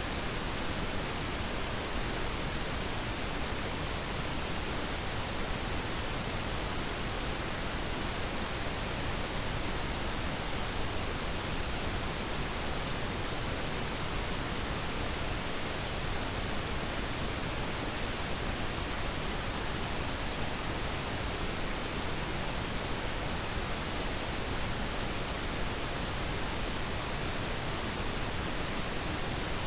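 Steady pink noise: an even, unchanging hiss spread across the whole range, with no breaks or other sounds.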